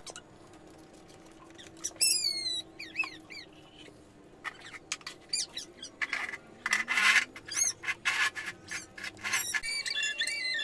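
Small birds chirping in short, repeated high calls that sweep down in pitch, with a few short clicks in between.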